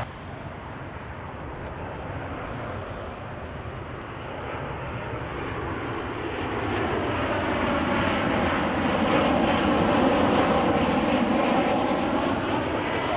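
Boeing 737-800 jet airliner with CFM56-7B engines on approach to land, its engine noise building over several seconds to a peak near the end. The sound has sweeping, wavering bands as the plane passes closest.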